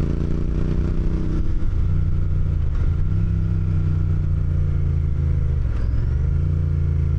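Motorcycle engine running while riding, its note shifting up and down a few times as the bike changes speed.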